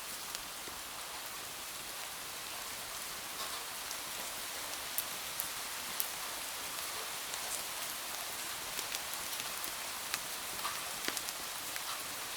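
Steady rain falling, an even hiss with scattered sharp ticks of drops or crackles every so often.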